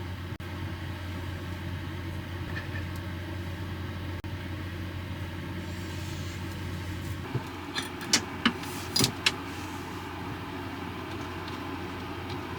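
Steady low drone of a running vehicle, with a quick cluster of sharp clicks and knocks about eight to nine seconds in.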